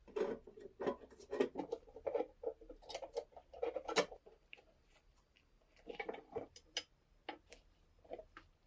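Irregular small knocks, clicks and scrapes of hard parts being handled and worked by hand, in two busy runs with a lull about halfway through.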